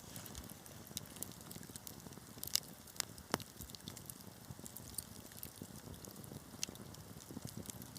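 Wood fire burning in a fireplace: a steady low rush of flames with irregular sharp crackles and pops, the loudest few near the middle.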